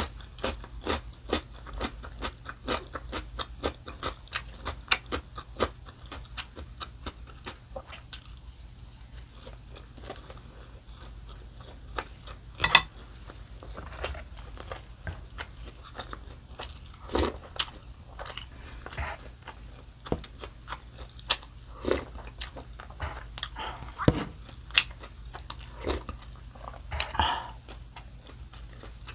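A person chewing and biting food, with a quick run of small wet mouth clicks. Now and then there is a louder click or knock.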